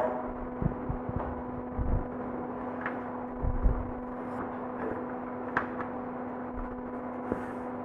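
Steady low electrical hum with a few soft knocks and faint clicks scattered through it.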